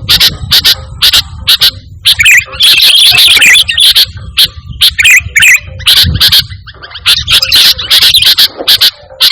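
Sooty-headed bulbul (kutilang) singing energetically: a fast run of short, sharp chirps, about three or four a second, breaking into longer bursts of jumbled warbling about two seconds in and again near the end.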